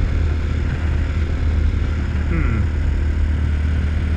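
RPS Hawk 250 dual-sport motorcycle engine running steadily under way, a constant low rumble.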